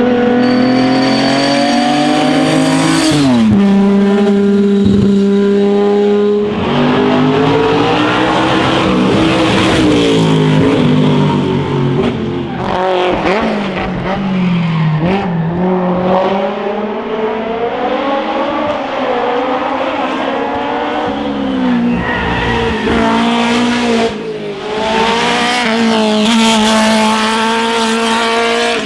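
Classic racing car engines revving hard. The engine pitch holds, drops sharply and climbs again over and over, as through gear changes.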